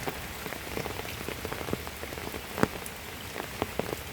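Heavy rain falling steadily, with many single drops ticking close by and one louder drop about two and a half seconds in.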